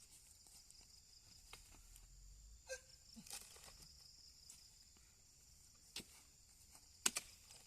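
Faint steady chirring of insects with a few sharp knocks, two close together near the end.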